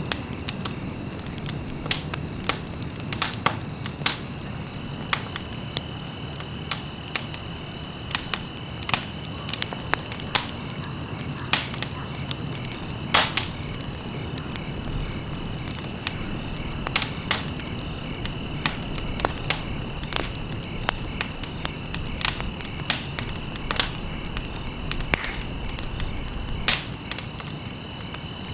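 Wood fire in a fireplace crackling, with irregular sharp pops of varying loudness over a low rumble of burning. A thin steady high tone runs underneath.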